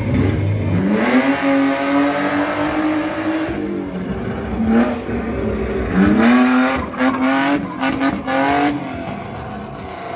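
Stunt car's engine revving hard as the car drifts in tight circles on concrete. One long rev climbs about a second in and holds, then drops, followed by a brief blip, a second climb and a run of short throttle stabs, over tyre noise.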